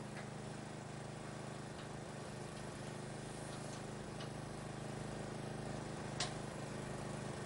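A steady engine hum from machinery at night track work, with a few faint clicks and one sharp click about six seconds in.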